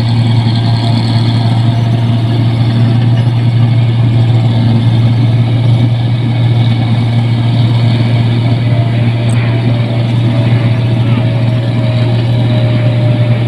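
Rice combine harvester running steadily while cutting and threshing, a loud even engine drone with a deep hum.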